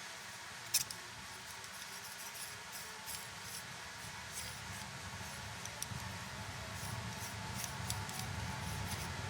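Light clicks and clinks of a freshly turned metal repair bushing being handled and tried in its seat, with one sharper click about a second in, over a low steady background hum.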